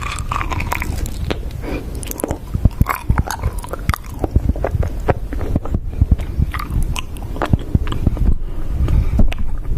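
Close-miked biting and chewing of food, with many sharp crunches and crackles over wet, heavy chewing.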